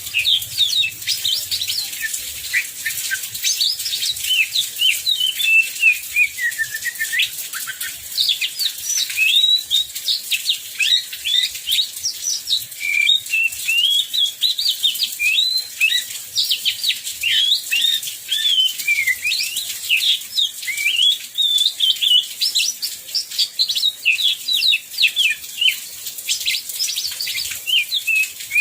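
Oriental magpie-robin singing continuously in a rapid, varied warble of quick up-and-down whistled notes, over a steady high hiss.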